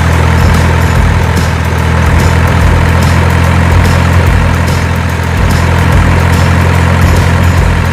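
Heavy truck engine idling, a steady low drone at constant speed.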